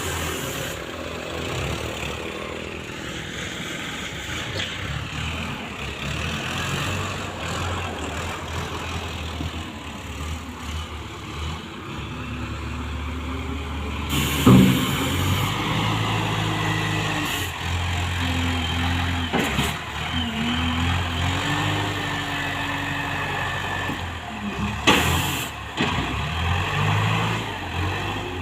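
Diesel truck engines running steadily, with two sudden loud sounds, one about halfway through and one near the end.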